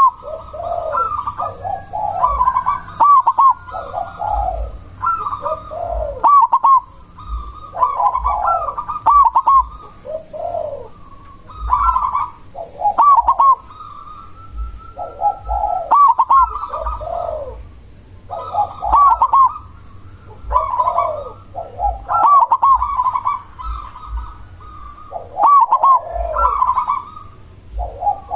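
Zebra dove (perkutut, black cemani variety) cooing. It repeats its rapid, warbling song phrase of quick rising coo notes about every three seconds.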